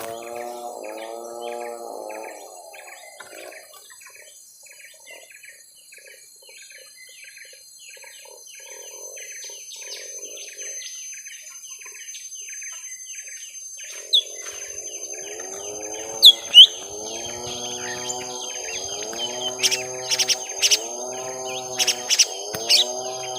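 Young cucak ijo mini leafbirds calling in a fight: a fast, continuous chatter of short high notes, with a harsh, repeating lower call in the first seconds that returns from about midway, and loud sharp chirps in the last third.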